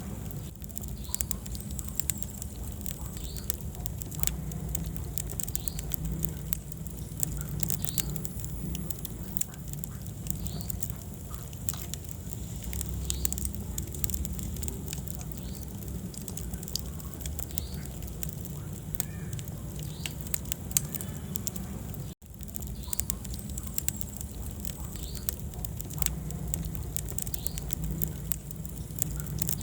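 Wood fire in a fireplace crackling, with frequent sharp pops over a steady low rumble of the flames. The sound cuts out for an instant about two-thirds of the way through.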